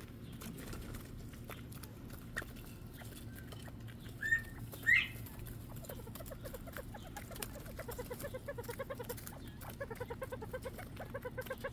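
Quail calling: two short, sharp rising chirps about four seconds in, then a rapid run of soft clucking notes from about six seconds on. Faint clicks sound throughout.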